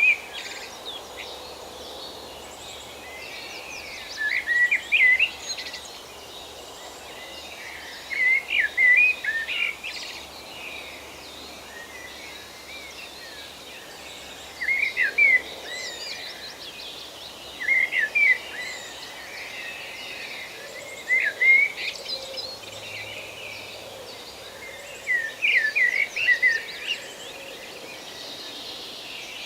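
Forest ambience: a songbird sings the same short phrase of several quick, sweeping notes over and over, a few seconds apart, over a soft steady hiss.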